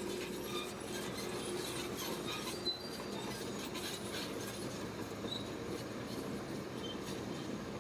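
Shantui crawler bulldozer running steadily, its steel tracks giving scattered short high squeaks and clinks.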